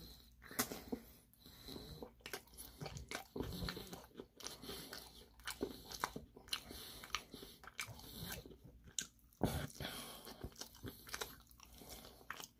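Close-miked chewing and crunching of crispy Korean fried chicken, with irregular crunchy bites scattered through.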